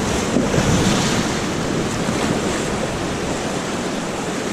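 Steady rush of river water with wind noise on a helmet-mounted GoPro's microphone.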